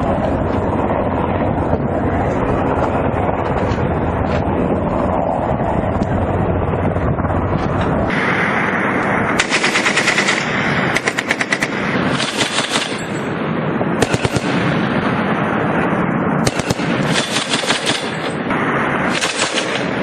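Steady aircraft engine noise for the first several seconds, then a series of short bursts of rapid automatic machine-gun fire, about six or seven bursts.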